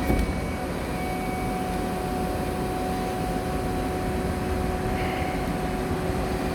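Ford 6.4 diesel running at raised PTO idle, driving the aerial lift's hydraulics as the boom is worked: a steady whine over an even engine rumble, with a short knock at the very start.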